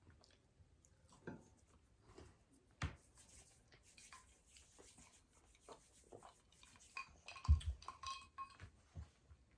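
Eating at a table: scattered clicks and clinks of cutlery against dishes, with chewing, and one louder knock about three-quarters of the way through.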